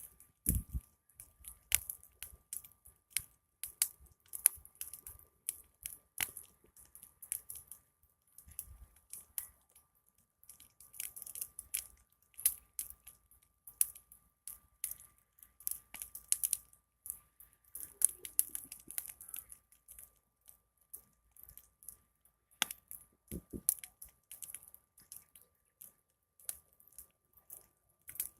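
Wood fire crackling, with irregular sharp snaps and pops, some close together and a few louder than the rest.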